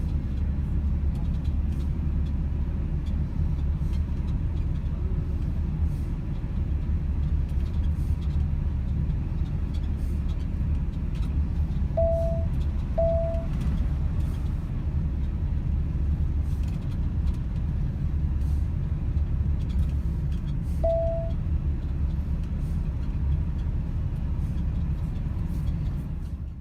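Steady low road and engine rumble of a van on the move, heard from inside the cab. Two short beeps about halfway through and a third one later.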